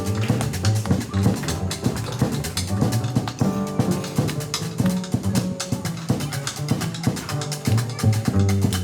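Live jazz band playing an instrumental passage: drum kit with frequent cymbal and snare strokes over walking double bass and piano.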